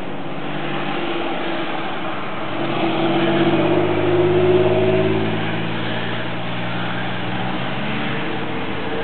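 A car's engine running, growing louder and rising in pitch a few seconds in, then easing back to a steady hum, over a steady background hiss.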